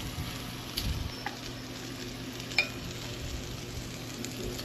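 Food sizzling on a portable fire-pit grill, a steady crackling hiss, with a few light clicks.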